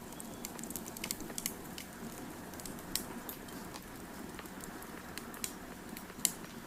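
Wood fire crackling: irregular sharp pops and snaps over a steady low rush, with one louder pop near the end.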